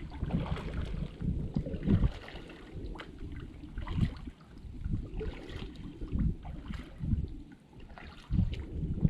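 Kayak paddle splashing and dripping in the water, with wind buffeting the microphone in irregular low gusts.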